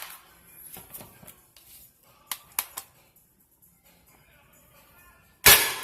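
Toy foam-dart blaster firing a single dart: one sharp, loud shot near the end. Two light clicks come about two and a half seconds in.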